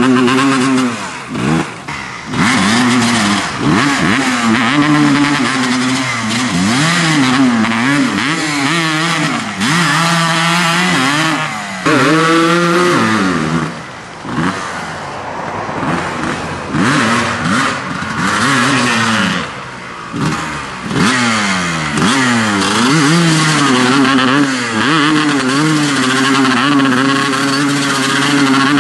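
Dirt bike engines revving up and easing off over and over, at times more than one at once.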